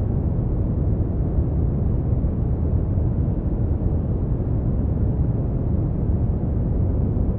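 Steady brown noise: a deep, even rumbling hiss, strongest in the bass and fading toward the treble, without change.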